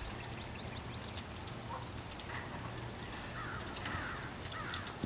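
Birds calling in short falling chirps, four or five times in the second half, over a steady low hum.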